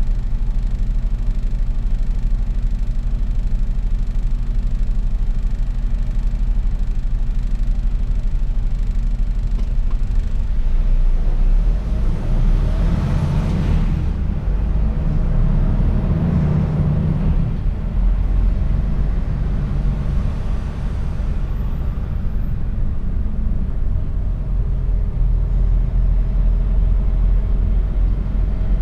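Mercedes-Benz Actros truck's diesel engine running in a low, steady drone, heard from inside the cab while driving. About halfway through, a swell of louder road noise rises and fades over several seconds.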